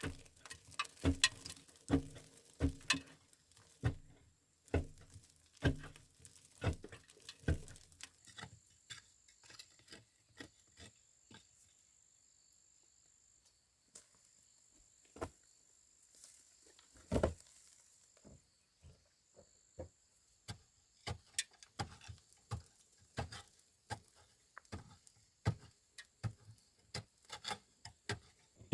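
Intermittent small clicks, taps and knocks, as from handling objects, thinning to near quiet in the middle, with one louder knock about halfway through.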